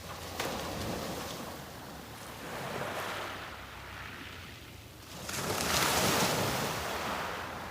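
Sea waves breaking and washing up the beach, in swells that rise and fall, the largest breaking about five seconds in. A low rumble of wind on the microphone lies underneath.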